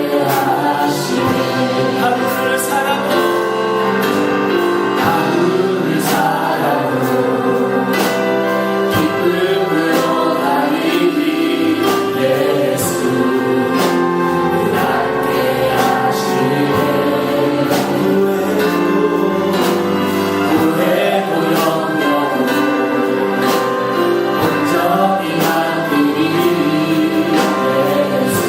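Gospel-style Christian worship music: a choir singing over instrumental accompaniment with a steady beat.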